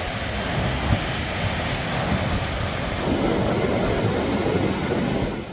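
Steady rushing noise with an uneven low rumble underneath, fading out at the very end.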